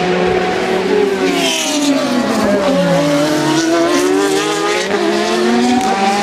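Race car engines at high revs, several overlapping as cars pass. The pitch falls for a couple of seconds, then climbs again toward the end.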